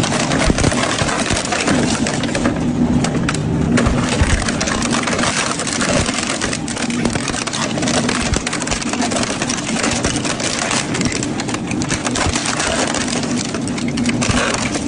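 Double-shaft metal shredder running under load, its motor humming steadily while the cutters tear through metal with constant crunching and cracking.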